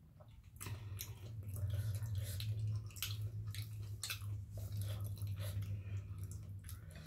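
A person chewing and crunching a mouthful of food close to the microphone, with many quick sharp crunches and mouth clicks. A low steady hum comes in about half a second in and stays underneath.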